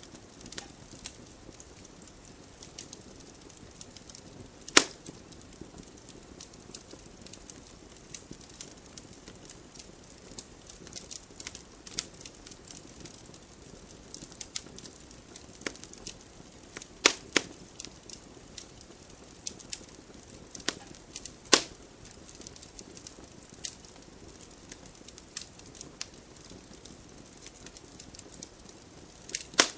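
Wood fire burning in a fireplace: a constant scatter of small crackles and snaps over a faint hiss, with a handful of much sharper pops spread through.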